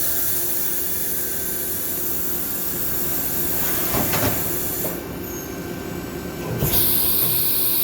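CNC vertical machining center running a machining cycle: a steady hiss of spray or air blast over a faint machine hum. The hiss cuts out about five seconds in and comes back louder near seven seconds.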